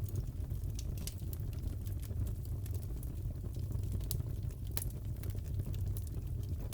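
Crackling wood fire: a steady low rumble of flames with scattered sharp crackles and pops, and a couple of louder pops a little past the middle.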